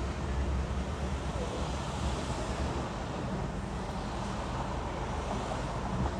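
Steady car driving noise: engine and tyre rumble with road hiss, with no distinct events.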